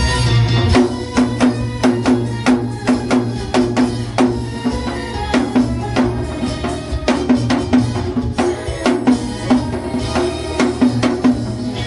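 Janggu (Korean hourglass drum) played in quick, even strokes along with a recorded backing song. The drumming comes in about a second in, over the continuing music.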